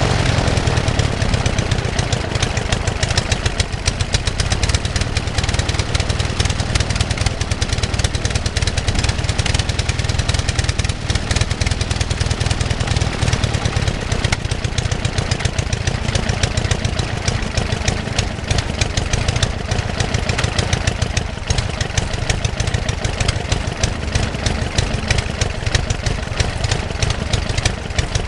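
Global half-VW engine, a two-cylinder four-stroke boxer, running steadily while it turns the propeller of a small homebuilt taildragger.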